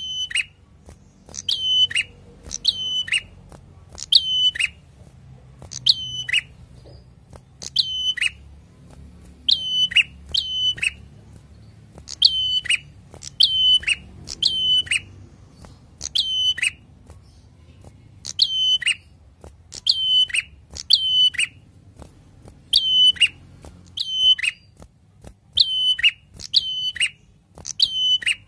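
A tailorbird sings a string of loud, sharp, downward-sweeping call notes, mostly in pairs, about one to two a second, with short pauses between runs.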